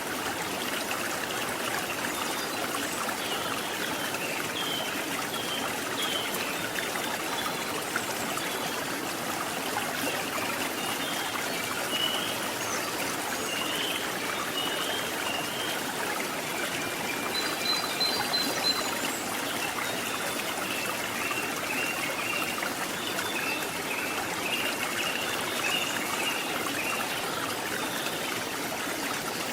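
Stream water running steadily, with short high chirps scattered over it.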